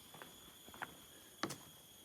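Footsteps on a wooden boardwalk at walking pace, three steps with the last the loudest, over a steady high-pitched hum.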